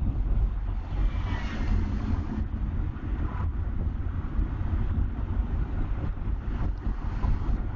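Interior noise of a rotary-engined Mazda RX-8 on the move: a steady low rumble from the car, with wind buffeting the microphone.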